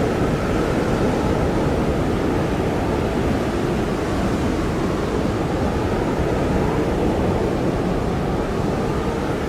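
Blizzard wind blowing steadily, a dense rushing noise with a faint, slowly wavering howl running through it.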